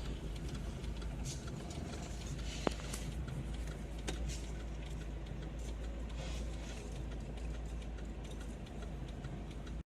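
Steady low rumble of a moving vehicle's engine and road noise, with a couple of sharp clicks about three and four seconds in; it cuts off abruptly at the end.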